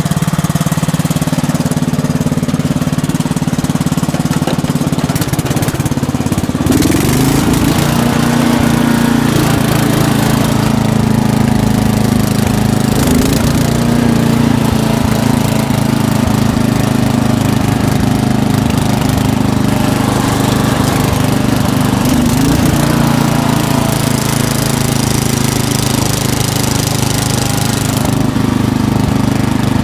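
An 11-horsepower Dynamark lawn tractor engine running. About six to seven seconds in it speeds up and then holds at a higher speed, its pitch wavering a little, as the tractor is driven.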